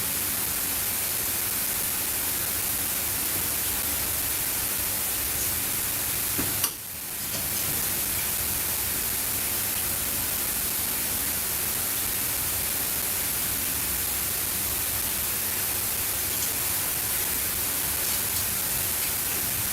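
A steady hiss that runs on evenly, with a short sharp click and a brief drop in level about seven seconds in.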